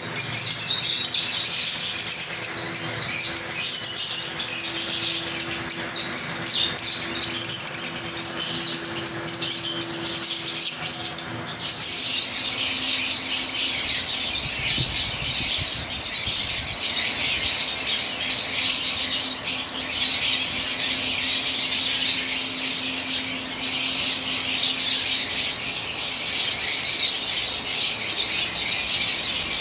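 A flock of lovebirds chattering and shrieking nonstop, many high-pitched calls overlapping into a dense din.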